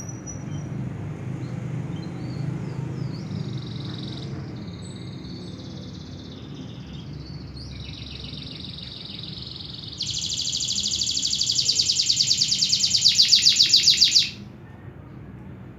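Domestic canary singing: a string of warbled phrases building to a loud, very rapid trill of about four seconds that cuts off sharply. A faint low hum lies underneath.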